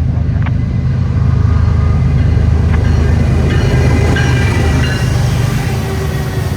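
Diesel locomotives of a CN freight train passing close, their engines running loud with a deep steady drone, along with the rumble of the train on the rails. The sound swells about a second in and begins to ease near the end.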